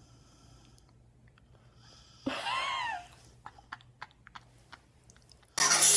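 A puppy gives one short high-pitched whine-like cry, its pitch rising then falling, about two seconds in, followed by a few small clicks; music starts near the end.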